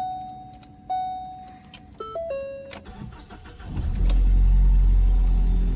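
Dashboard chimes sound a few times, with a short run of chime notes about two seconds in, then the 2016 Ford Focus SEL's 2.0-litre four-cylinder cranks and starts about three and a half seconds in and keeps running steadily.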